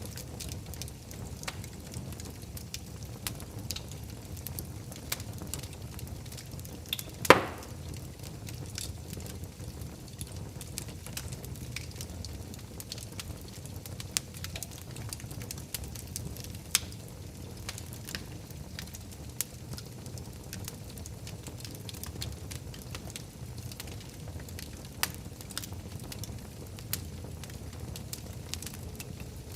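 Wood fire burning in a fireplace: a steady low rumble of flames with scattered sharp crackles throughout and one loud pop about seven seconds in.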